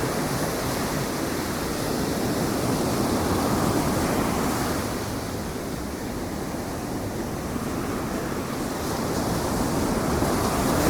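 Ocean surf breaking on the beach, a steady wash of waves that swells and eases, with some wind on the microphone.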